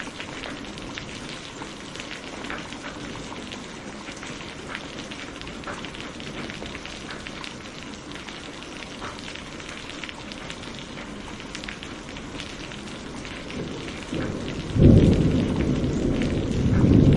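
Steady rain with scattered light ticks, then about fourteen seconds in a loud, low rumble of thunder begins and swells again near the end.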